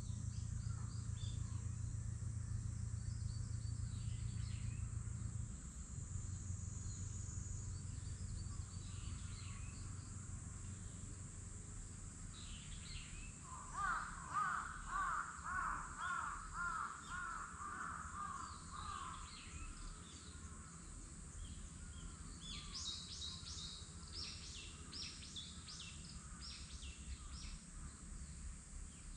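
Birds calling in woodland: a run of rapid, harsh repeated calls lasting about six seconds near the middle, then scattered short high chirps. A low steady hum at the start drops away about five seconds in.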